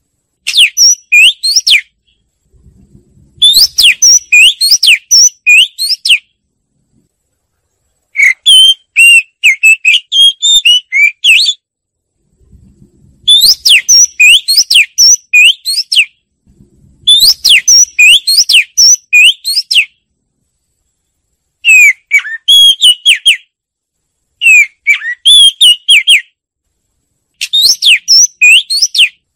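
Oriental magpie-robin singing: loud phrases of clear whistled notes, each lasting a couple of seconds and broken by silent gaps of one to two seconds. Some phrases repeat the same quick rising-and-falling note several times, and others are a more varied warble.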